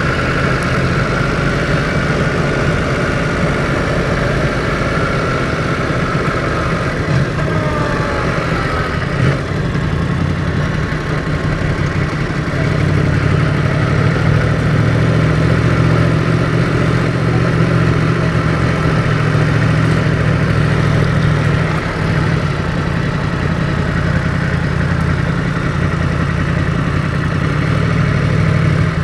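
Yamaha MT-10's crossplane inline-four engine running at low revs through an Akrapovic exhaust as the bike is ridden slowly, its pitch shifting a little in the first several seconds and the sound growing slightly louder about twelve seconds in.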